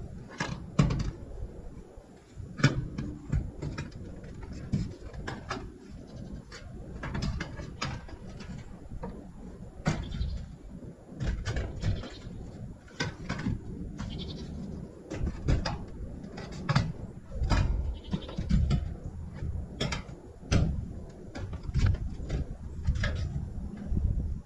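Scattered knocks and clatter from building work on a barn overhang, over a low rumble, with a farm animal bleating now and then.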